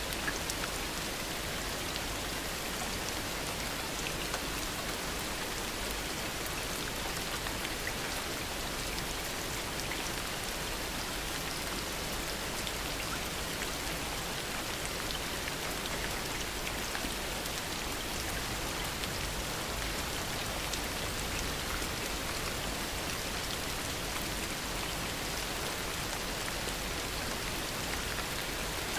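Steady heavy rain falling, a continuous hiss with many small drop ticks and no thunder.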